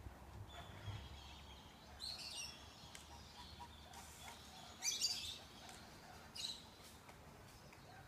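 Bird calls: a few short, high chirping calls a second or more apart, the one about halfway through the loudest.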